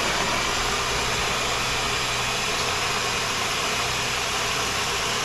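Electric blender running steadily, grinding hot peppers, onion, garlic and vinegar into pepper sauce.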